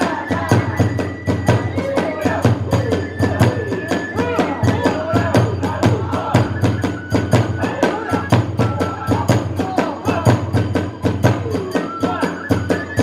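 Kagura hayashi accompaniment playing a fast piece: rapid, even drum beats and clashing hand cymbals under a bamboo flute melody that moves in held, stepping notes.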